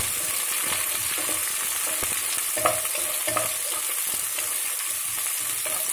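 Sliced onions, garlic and green chillies sizzling in hot oil in a granite-coated nonstick pan as they are stirred with a spatula, with a couple of sharper knocks of the spatula on the pan, the louder about two and a half seconds in.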